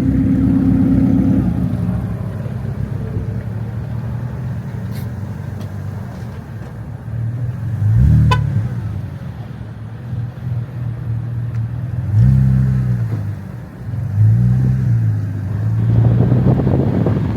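Car engine running, its revs rising and falling in short blips about three times, near the middle and in the second half.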